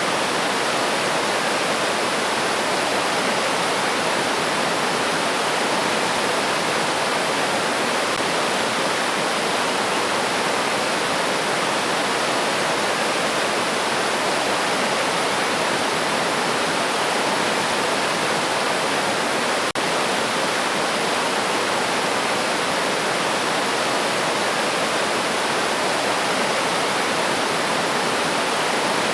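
River water rushing over rocks in a steady, unbroken flow, with a momentary dropout about twenty seconds in.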